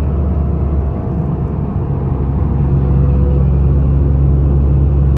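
Car cruising at freeway speed: a steady low engine and road drone that gets a little louder about three seconds in.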